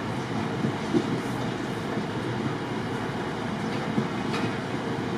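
A train at a station platform: a steady rumbling noise with a few faint clicks.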